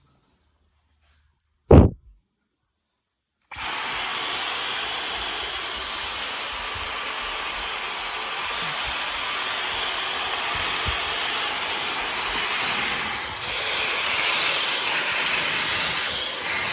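Dyson V11 Animal cordless stick vacuum running steadily, a loud rushing noise with a thin high-pitched whine on top, shifting slightly near the end. It comes in after about three and a half seconds of silence, broken once by a short sharp sound.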